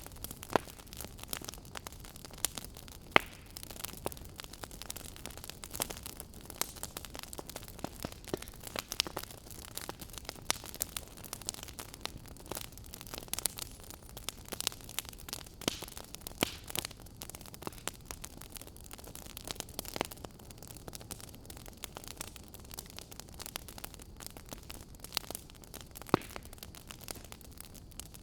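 Wood fire crackling in a fireplace: a steady low hiss of burning with frequent irregular sharp pops and snaps.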